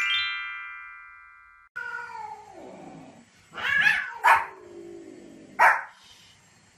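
A descending chime glissando rings and cuts off abruptly under two seconds in. Then a dog gives a falling whine followed by three short, sharp yelps.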